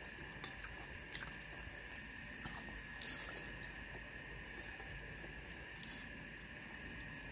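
Soft chewing of a mouthful of lontong with vegetable curry, mouth closed, with a few small wet clicks scattered through.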